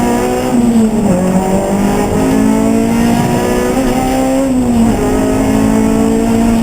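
Race car engine running hard, its note climbing under acceleration and dropping sharply at gear changes about a second in and again near five seconds.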